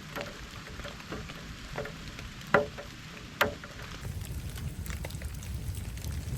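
Wood campfire crackling and popping in the rain, with two loud pops about two and a half seconds in and a second later. About four seconds in the sound changes abruptly to a denser patter of fine ticks over a steady hiss of rain.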